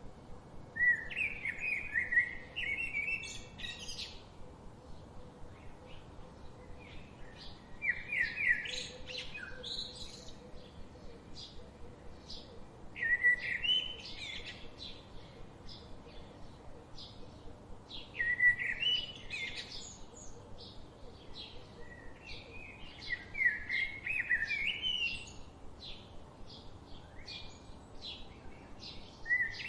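A songbird singing a loud, warbling phrase of one to three seconds about every five seconds, six times in all. Other birds chirp faintly and briefly throughout.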